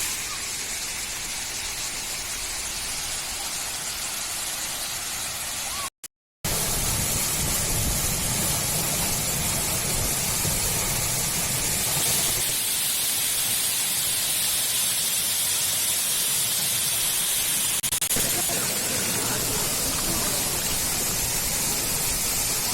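Steady rushing of water at the full dam, an even hiss with no break in it. The sound cuts out completely for about half a second around six seconds in and comes back with a fuller, deeper rush.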